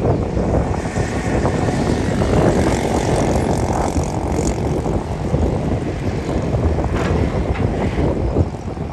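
Bulldozer's diesel engine running under load, a loud, steady low rumble.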